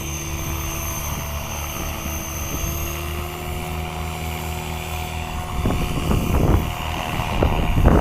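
550-size electric RC helicopter flying, its motor and rotor giving a steady whine that climbs slightly in pitch over the first few seconds. Wind buffets the microphone in gusts, loudest near the end.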